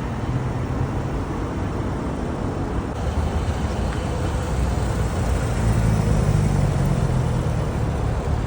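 Car engine running close by with a low, steady rumble that swells a little about five seconds in.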